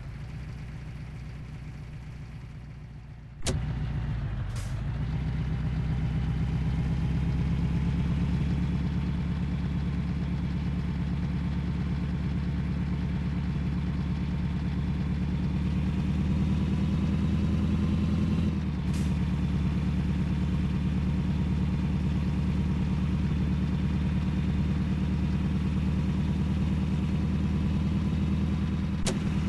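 Heavy truck's engine running steadily. It gets suddenly louder about three and a half seconds in, its pitch creeps slowly upward, then drops abruptly about eighteen seconds in, and it runs on steadily.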